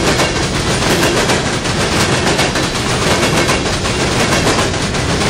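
Freight train of steel coal hopper cars rolling past close by: a loud, steady rumble with a rapid clatter of steel wheels on the rails.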